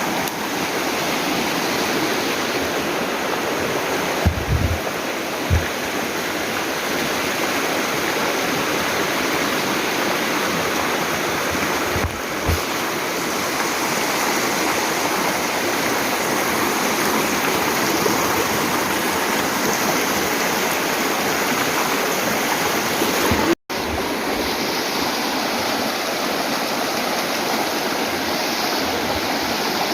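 Steady rush of flowing water from a mountain stream, with a few short low thumps early on and near the middle.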